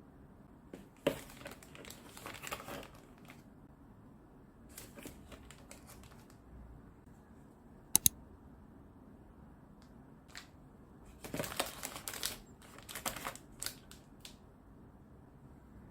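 Household handling sounds: crinkling and rustling in several bursts, with a sharp double click about eight seconds in.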